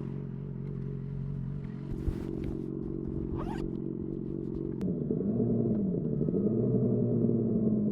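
Yamaha FZ6N's inline-four engine through a Two Brothers exhaust, running steadily under way. About five seconds in the revs drop briefly, then climb again and the exhaust gets louder. Brief scraping rustles come through the mid part.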